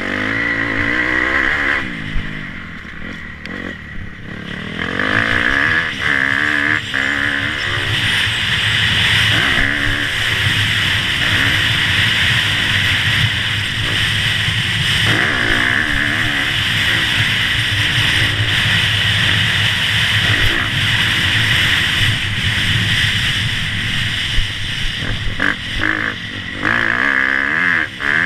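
Motocross bike engine running hard, its pitch rising and falling again and again as the rider opens and closes the throttle.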